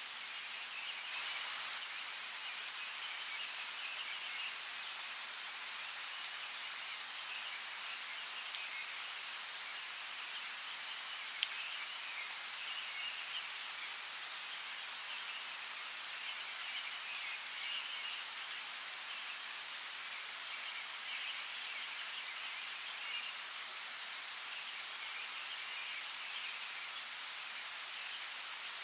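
Steady rain falling, an even hiss with scattered sharper drop ticks. Faint high chirping comes and goes over it.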